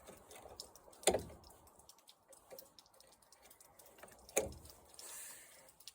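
Two sharp knocks about three seconds apart, with faint scattered clicks between them: tools and parts being handled while taking pieces off a lawn mower.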